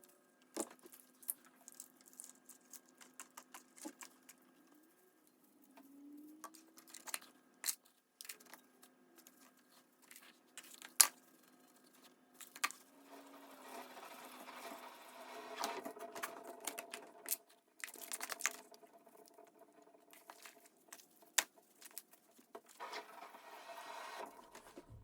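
Repotting handling noise: scattered knocks and clicks from pots being handled, with stretches of rustling and scraping as soil and roots are moved, over a faint steady hum.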